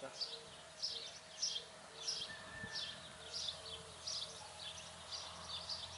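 A small bird chirping over and over, short high chirps about twice a second, over a faint steady hum.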